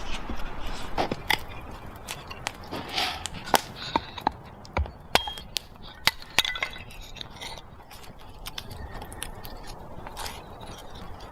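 Irregular sharp clicks, knocks and clinks, closely spaced for the first six or seven seconds, then only fainter scraping over a low hiss.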